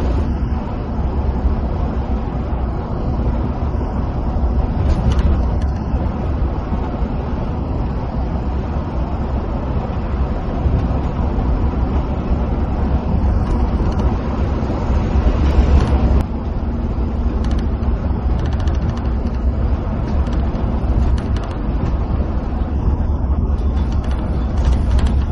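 Inside a moving coach bus: a steady low drone of the engine and tyre roar on the motorway, cruising at an even speed.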